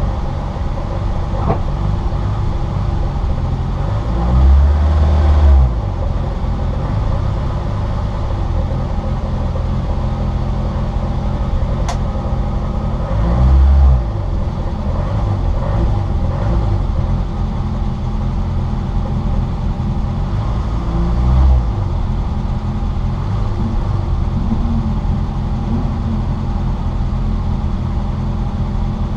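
Citroën Saxo VTR's 1.6-litre four-cylinder engine running hard at racing speed, heard from inside the car along with road noise. Three short low booms come about 4, 13 and 21 seconds in.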